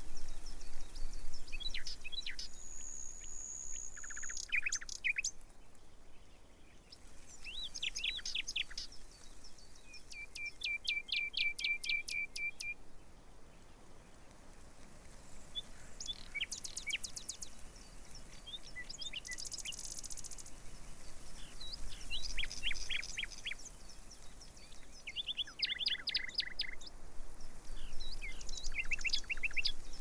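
Birds singing and calling: short phrases of quick repeated high notes, one thin whistle held for over a second near the start, and a fast, even trill lasting a couple of seconds about a third of the way through.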